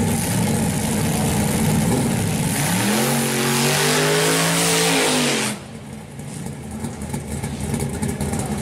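A G-body Chevrolet Malibu drag car's engine idling with a rough rumble. About two and a half seconds in it revs up and holds high with a loud hiss for about three seconds, then drops back abruptly to a quieter idle.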